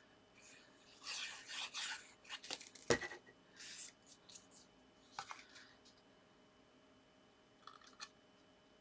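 Card stock and paper being handled and pressed together: scratchy rustling and sliding in short bursts, with one sharp tap about three seconds in.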